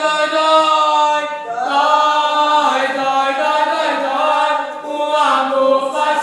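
A group of voices singing an Umbanda ponto (ritual chant) in long held notes that glide between pitches, with no drumbeats heard.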